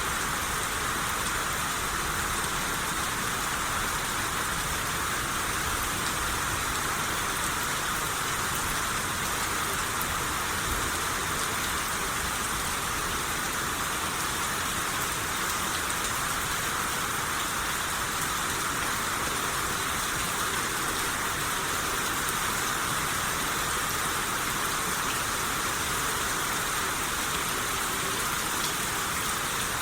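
Steady rainfall, an even hiss of rain on a surface with no letup.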